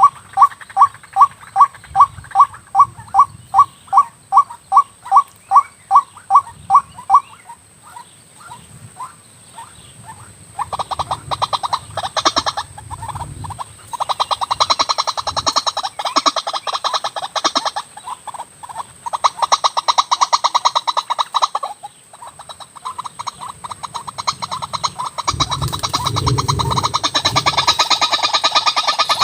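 White-breasted waterhen (ruak) calling. First comes a regular series of loud notes, about two to three a second, which fades after about seven seconds. About ten seconds in, faster stuttering runs of calls start and go on with short breaks.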